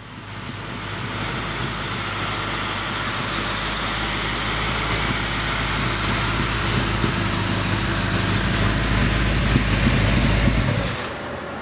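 The 1936 Ford coupe's 350 Chevy small-block V8 crate engine idling steadily, dropping away near the end.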